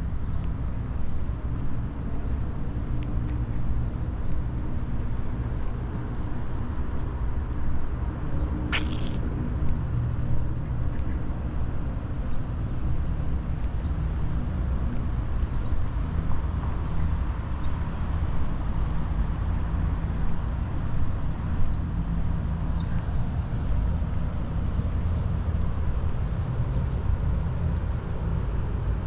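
Small birds chirping in short, high, down-slurred notes, repeated every second or two over a steady low rumble, with one sharp click about nine seconds in.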